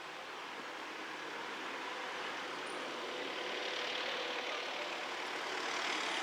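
A motor vehicle's engine running, growing steadily louder throughout.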